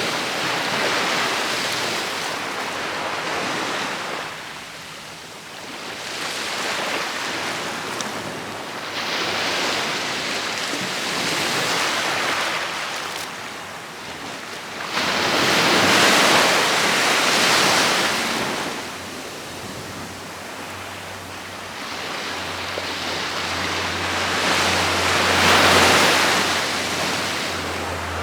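Ocean waves breaking and washing up a beach in slow surges, one every four to six seconds, the biggest about halfway through.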